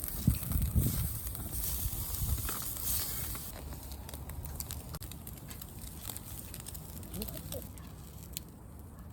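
Wood campfire crackling, with scattered small pops. A low rumble is loudest in the first couple of seconds, then fades.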